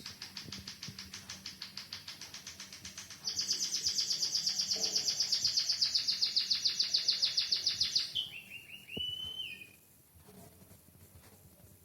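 White-headed munia (emprit kaji) singing a canary-style song: a rapid, high trill that grows louder about three seconds in. Near eight seconds it drops to a lower trill, then fades out about ten seconds in.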